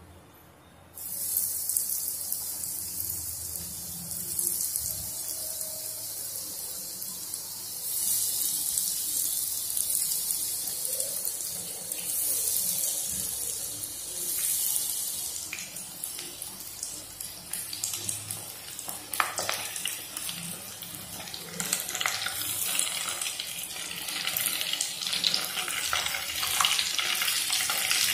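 Breadcrumb-coated green beans deep-frying in hot oil in a nonstick pan: a sizzling hiss that starts suddenly about a second in as the beans go into the oil, with scattered crackles and pops, more of them in the later half.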